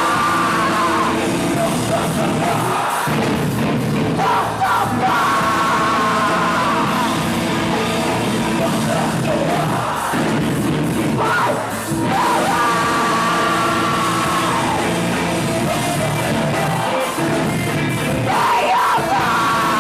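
Live rock band playing loudly, with a vocalist's held, yelled lines coming in every few seconds over the band.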